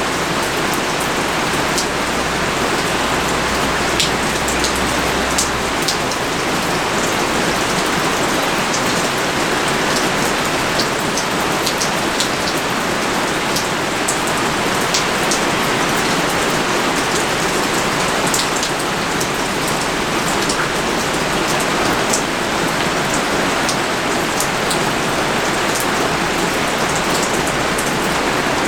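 Heavy, steady pouring rain, with individual drops landing as sharp ticks scattered throughout.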